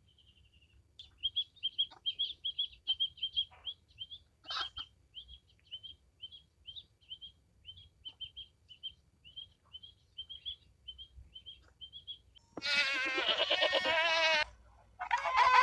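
A bird chirps in a long, fast run of short, high chirps. Then comes a loud animal call with a wavering pitch, lasting about two seconds, and a second call starts near the end.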